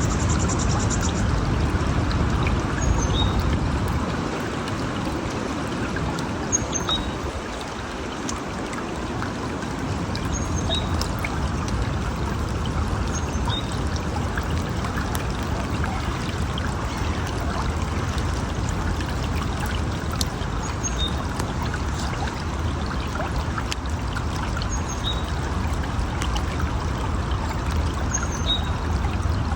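River water flowing in a steady rush, with short high chirps every three or four seconds above it.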